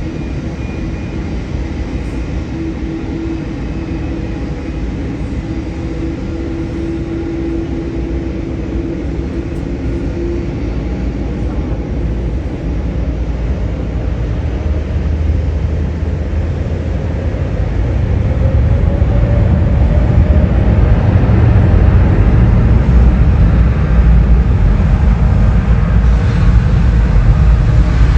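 Jet airliner's engines: a steady low rumble with a faint whine that grows much louder over the last third.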